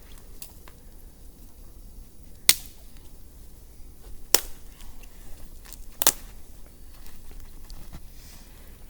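Wood cracking sharply three times, a second and a half to two seconds apart, with faint small crackles in between.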